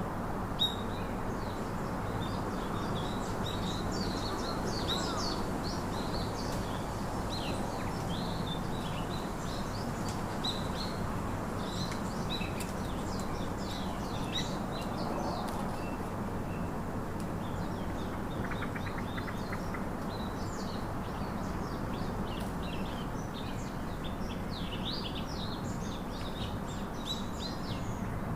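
Many small birds chirping and trilling together over a steady low rushing background noise.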